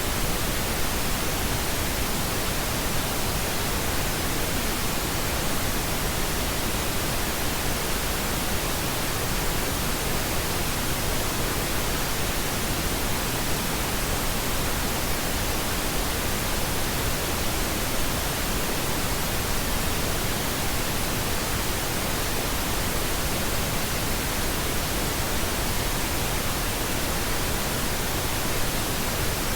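Steady synthetic pink noise: an even, unchanging hiss spread across all pitches, with no events or variation.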